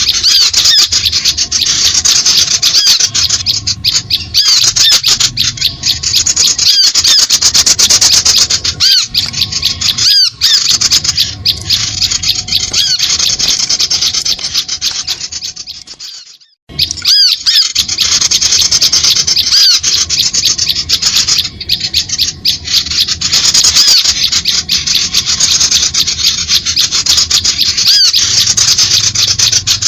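Bird-lure call recording: loud, dense, continuous chattering and high chirping of small birds with a harsh, rasping texture, played to draw birds in. It breaks off briefly about halfway through and resumes.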